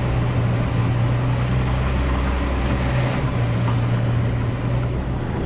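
Diesel engine of a 2000 Freightliner FLD 112 semi truck running steadily with an even low hum.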